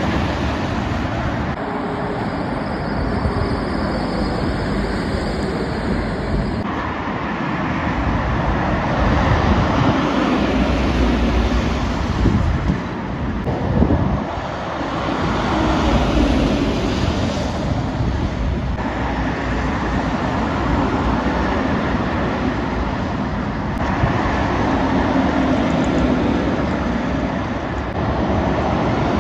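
Heavy lorries and other traffic passing at speed, engine drone and tyre noise swelling and fading as each vehicle goes by.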